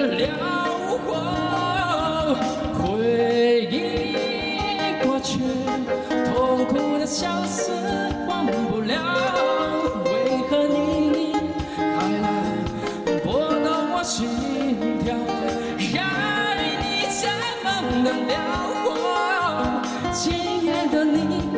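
A male singer performing a slow pop ballad live into a microphone, backed by a small band with guitars, all amplified through a PA.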